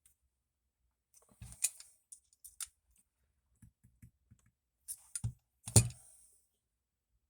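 Metal hand tools handled on a workbench: scattered clicks and knocks, the loudest a sharp knock near the end.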